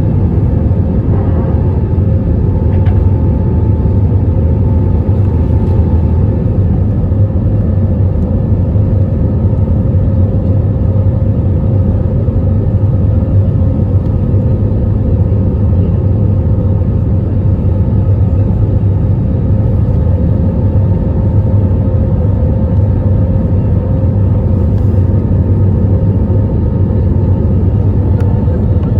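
Airbus A320neo cabin noise shortly after takeoff: the jet engines and the airflow make a loud, steady low rumble with a constant hum tone over it. A fainter higher tone fades out about six seconds in.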